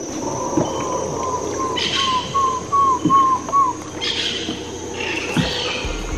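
A bird calling a run of about nine short whistled notes, each a little higher than the last, over a steady high insect drone. A few brief harsher sounds come in later.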